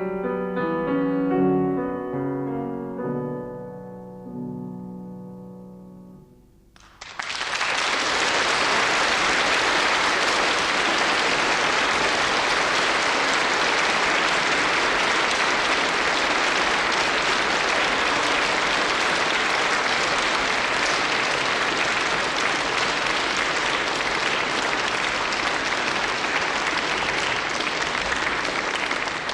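Piano playing the last notes of a romance's closing bars, fading away. About seven seconds in, an audience breaks into steady applause.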